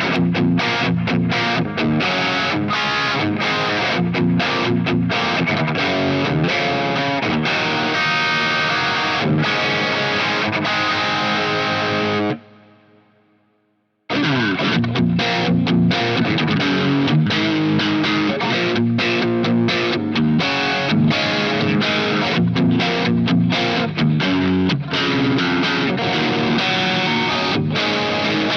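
Covenant Innovator I-STD electric guitar played through distortion, a dense run of riffs and chords. The playing stops abruptly about twelve seconds in, the last notes die away to silence, and it starts again about two seconds later.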